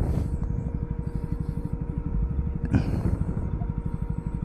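Motorcycle engine running at low revs, with a fast, even beat of roughly ten pulses a second.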